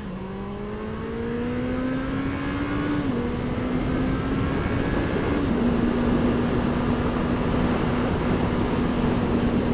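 Honda CB650F inline-four motorcycle engine pulling away and climbing in pitch, with two small drops in pitch about 3 and 5.5 seconds in, then running at a steady cruise, with wind rush over it.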